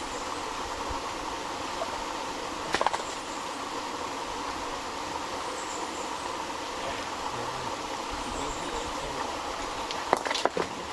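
Steady rushing of a creek and small waterfall, with a few sharp knocks about three seconds in and a quick cluster of them near the end.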